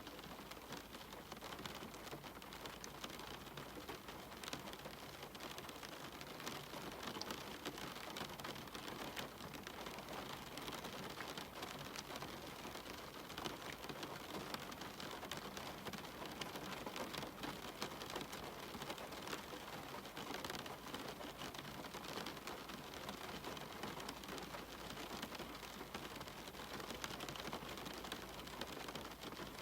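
Steady rain on a cabin window, an even hiss with many separate drops ticking close by.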